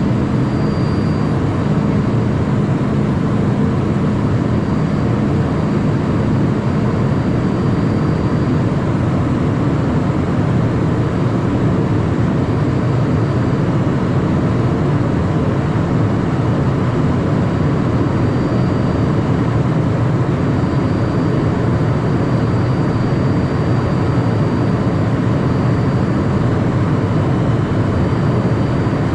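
Steady cockpit noise inside a Cessna Citation Mustang light jet: an even rumble of airflow and its twin turbofan engines, with a faint high whine that comes and goes.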